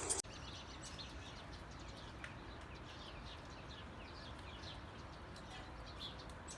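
Faint birds chirping: a quick string of short, falling chirps over a steady low hiss. A louder sound cuts off abruptly right at the start.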